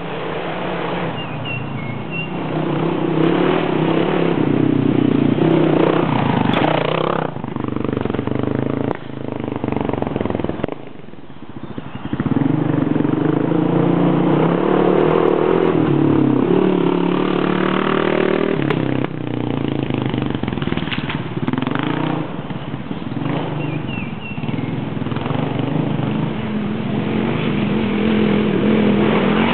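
Single-cylinder four-stroke dual-sport motorcycle engine under throttle, revving up and down as it rides, with the throttle shut briefly about eleven seconds in before it picks up again.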